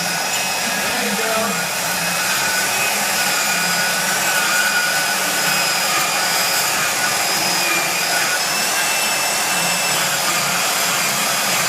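A high-speed electric power tool cutting through the steel of a trailer-hitch rack. It runs as one continuous whine whose pitch wavers slightly as the load changes.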